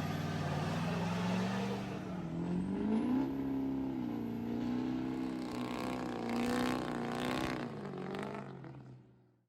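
A truck engine running and being revved: its pitch climbs about three seconds in, then wavers up and down over a steadier low hum, and the sound fades out near the end.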